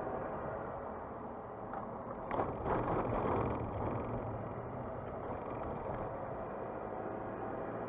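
Car driving along a mountain road: steady engine and road noise, with a louder rush of noise from about two and a half to three and a half seconds in.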